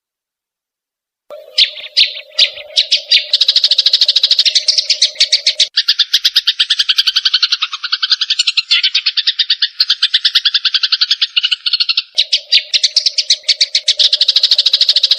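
Cucak jenggot (grey-cheeked bulbul) and Eurasian tree sparrow calls in an agitated fight exchange: very fast, high chattering trills starting about a second in. From about six to twelve seconds a lower, wider rattling trill takes over. A steady low hum runs under the high chatter.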